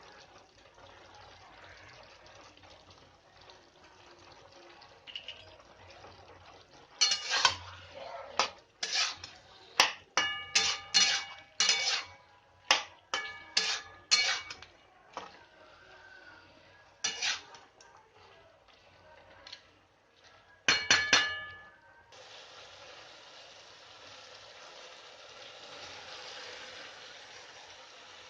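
A metal spoon or ladle clinking against a metal cooking pot, a run of sharp ringing clinks from about seven seconds in and ending in a quick cluster near the twenty-second mark. After that a steady hiss sets in.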